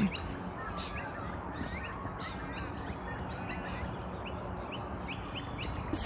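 Small birds chirping in the background: a busy run of short, high chirps several times a second, over a faint outdoor hush.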